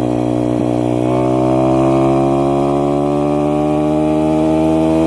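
SSR 160 pit bike's single-cylinder four-stroke engine running under way, its pitch climbing steadily from about a second in as the bike picks up speed in gear.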